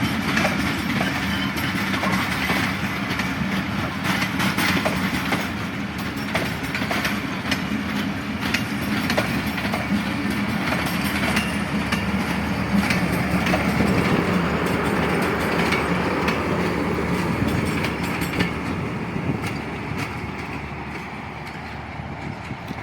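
Passenger train's coaches rolling past, the wheels clicking over rail joints again and again, fading away over the last few seconds.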